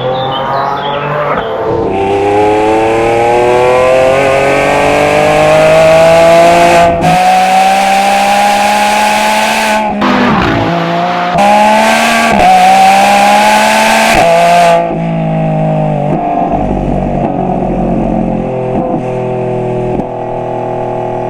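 Lamborghini Revuelto's V12 under hard acceleration through a QuickSilver stainless cat-back exhaust, its note climbing steadily with brief cuts as it shifts up, about seven and ten seconds in. About fifteen seconds in it lifts off and the note falls to a lower, steadier running sound.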